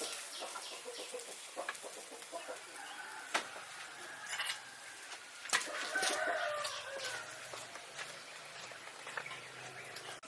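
Chickens clucking in short repeated calls, with a longer call about six seconds in and a couple of sharp knocks.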